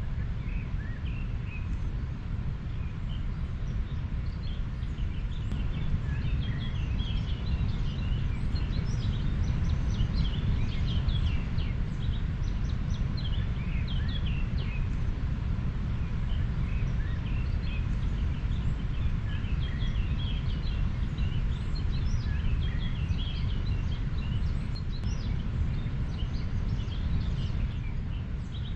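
River water flowing in a steady low rush, with many small birds chirping throughout.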